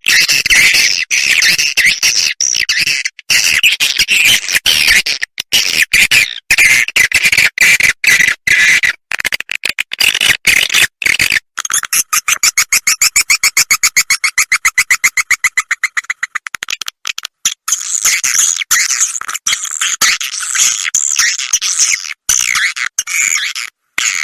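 Swiftlet lure call (suara inap, the roosting call played in swiftlet houses): a recording of edible-nest swiftlets' high, rapid chirping and clicking chatter, broken by short gaps. In the middle it turns into a run of fast, evenly spaced chirps, then goes back to denser chatter.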